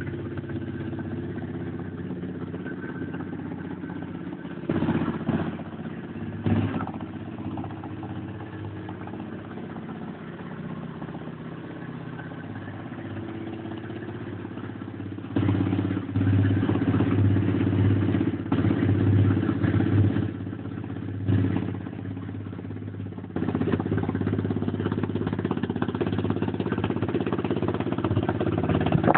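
125cc Lifan single-cylinder four-stroke pit bike engine idling, with two short throttle blips about five and six and a half seconds in. It then runs faster and unevenly for about five seconds and settles at a higher, steady speed near the end.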